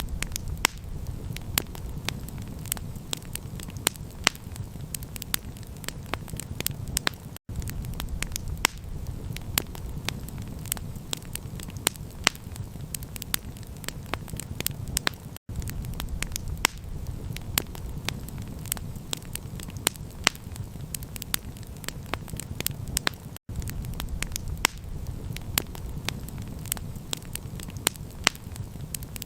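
Campfire crackling, with sharp pops several times a second over a steady low rumble. The sound drops out for an instant about every eight seconds.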